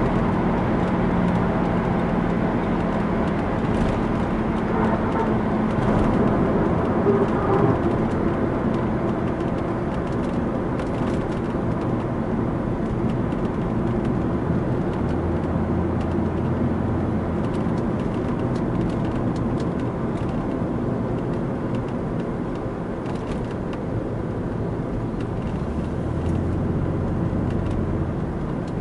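Mercedes-Benz 300 SDL Turbo's OM603 six-cylinder turbodiesel heard from inside the cabin under way, a steady engine drone mixed with tyre and wind noise. It gradually gets quieter as the car slows onto a curving exit ramp.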